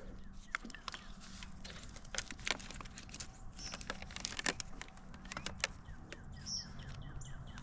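Scattered small clicks and rustles of hands fumbling with the zipper on a fabric magnetic koozie, with faint bird chirps in the background.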